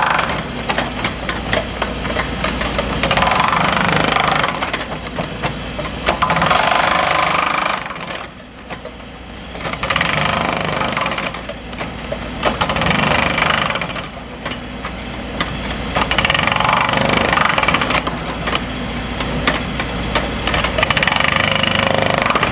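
Pneumatic breaker hammering in repeated bursts of one to two seconds with short pauses between them, over the steady running of an engine.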